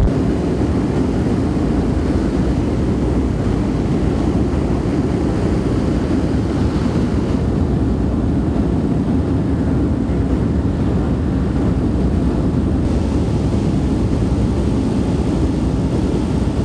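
A B-17 Flying Fortress's four Wright Cyclone radial engines running steadily, heard from inside the bomber's fuselage.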